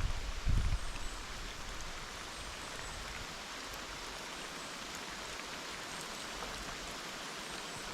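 Steady rain falling, an even hiss, with a few low bumps in the first second.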